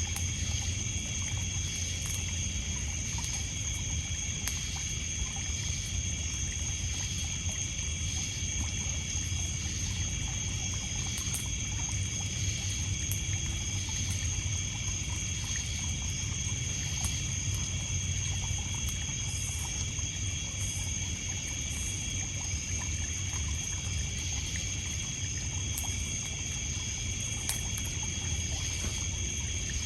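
Campfire-by-the-lake night ambience: crickets and other insects trilling in steady high tones over a low wash of water lapping on a pebble beach, with scattered sharp crackles from the burning wood.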